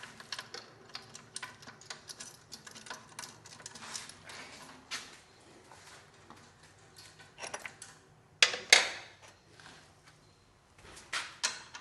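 Small metal clicks and clinks of nuts, bolts, washers and a wrench being handled during assembly, a few a second at first, then a few louder clanks about eight and eleven seconds in.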